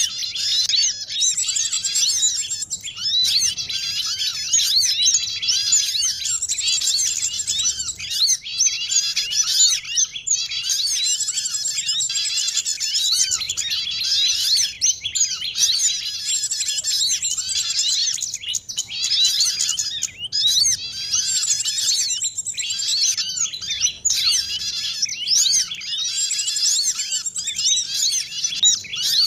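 A dense mix of many small songbirds chirping and trilling over one another without a break: a bird-trapping lure recording of calls from small birds such as sunbirds, white-eyes and prinias, played to draw wild birds down.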